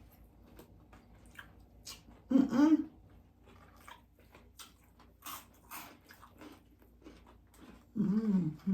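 Close-up chewing and crunching of crispy chicken and bacon lettuce wraps, many small crisp crunches. Two short voiced sounds from an eater break in, one about two and a half seconds in and one near the end.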